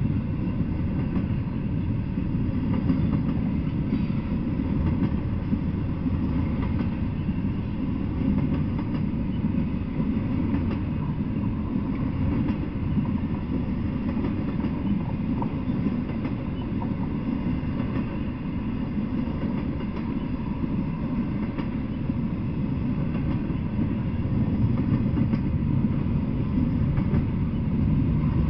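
Intermodal freight train rolling steadily past: a continuous low rumble from well cars loaded with double-stacked containers and trailers, with faint clicks from the wheels on the rails.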